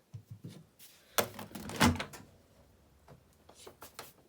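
Knocks and clunks: a few light taps, two louder clunks between one and two seconds in, then quieter clicks.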